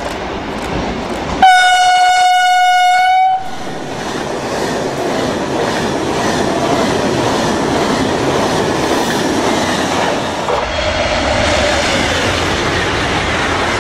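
Italo ETR575 high-speed electric train sounding one steady horn note for about two seconds as it approaches, then rushing past at speed. About ten seconds in the rushing noise changes as another train goes by.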